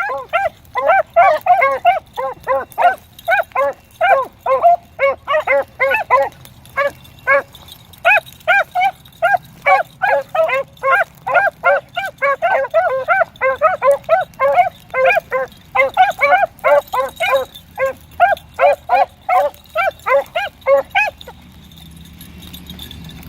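Beagles baying on a rabbit's trail: a fast, steady run of short chop barks, about three a second, that stops about 21 seconds in.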